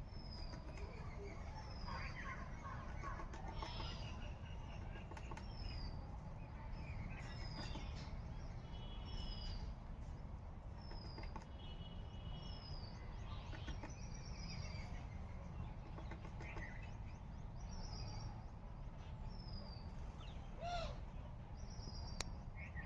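Small birds calling, one repeating a short high falling note about once a second among other scattered chirps, over a steady low rumble.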